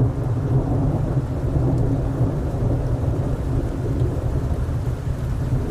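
Strong wind rumbling on the microphone, a steady low rumble throughout: the gusting wind ahead of an approaching thunderstorm.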